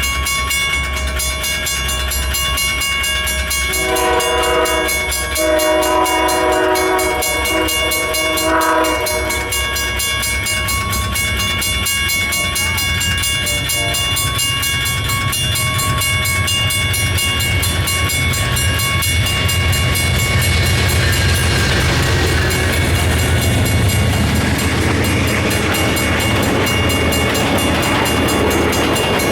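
Amtrak Hiawatha passenger train led by a GE P42 diesel locomotive: its multi-chime horn sounds in three blasts, two long and a short, about four to nine seconds in, over the diesel's low rumble. From about twenty seconds in the passenger cars roll past with growing wheel noise on the rails.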